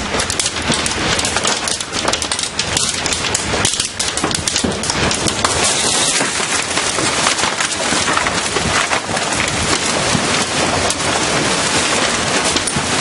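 A tornado's wind and driving rain hitting the house as a loud, continuous rush, with many sharp cracks and clatters of debris striking.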